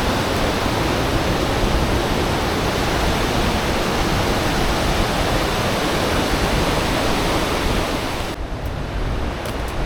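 Steady loud rush of turbulent, swollen river water. About eight seconds in the sound suddenly turns duller as the high end drops away.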